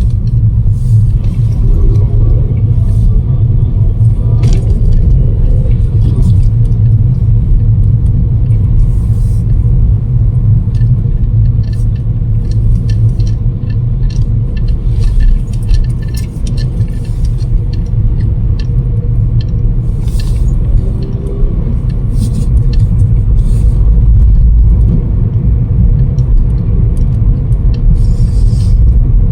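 Strong storm wind buffeting the microphone: a loud, steady low rumble with scattered clicks.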